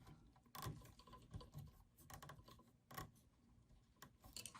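Faint, irregular clicks of a nylon zip tie being pulled tight around a bundle of printer cables, with a few clicks spread across a few seconds.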